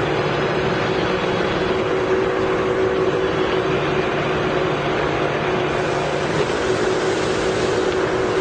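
Poreba TCG 160 engine lathe running under power at a steady speed, a constant mechanical drone with a steady whine through it.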